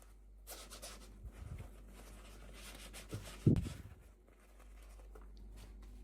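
Hands handling and unwrapping toy packaging: scattered rubbing, scraping and tearing noises, with a soft thump about three and a half seconds in.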